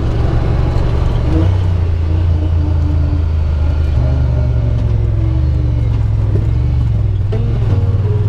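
A side-by-side UTV's engine running loudly as it drives along a trail, coming up to speed right at the start, its pitch stepping up and down a few times with the throttle.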